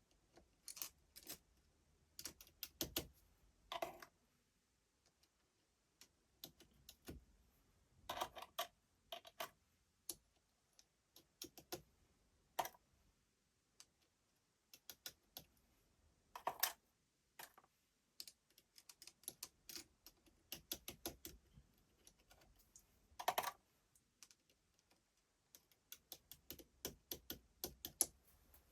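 Small hard parts and hand tools clicking and tapping in irregular clusters while a Makita cordless drill's gearbox is worked on, with short quiet gaps between.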